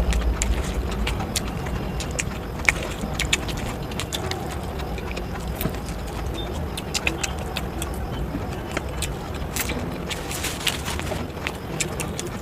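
Close-miked eating sounds: chewing with many sharp, irregular crunches and clicks over a steady low rumble.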